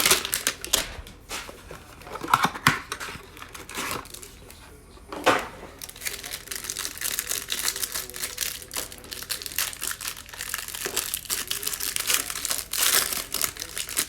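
Plastic wrapping of 2020 Mosaic football hanger packs being torn open and crinkled by hand: a few loud sharp crackles in the first half, then steady crinkling for the rest.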